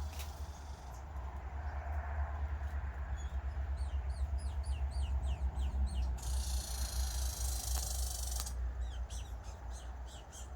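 A small bird chirping: a quick run of about eight high, falling chirps a few seconds in, and a few more near the end. Under it runs a steady low rumble, with a burst of hiss in the middle.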